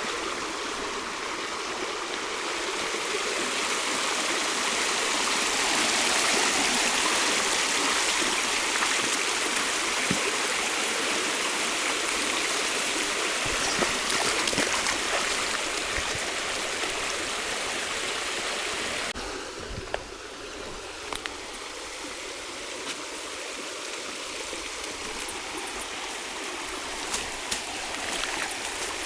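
River water rushing steadily, turning quieter and duller about two-thirds of the way through, with a few sharp knocks near the end.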